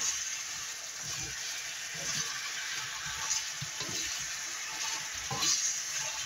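Pork adobo sizzling and bubbling in its dark sauce in a nonstick pan while a wooden spatula stirs it: a steady frying hiss with irregular soft knocks and scrapes from the spatula.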